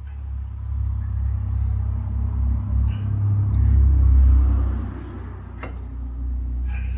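A motor running with a steady low hum that swells about four seconds in, with a few light clicks over it.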